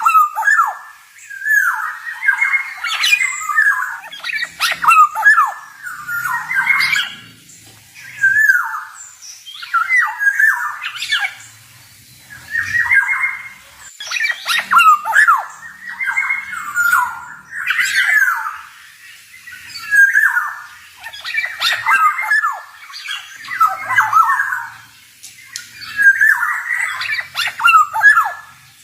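Male black-naped oriole (kepodang) singing: short phrases of sliding whistled notes mixed with harsh, squawky notes, repeated one after another every second or two.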